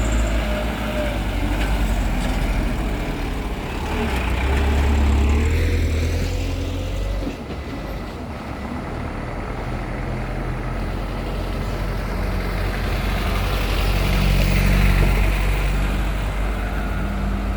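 Diesel truck engine labouring under load, its low drone swelling up twice as the driver pushes it harder.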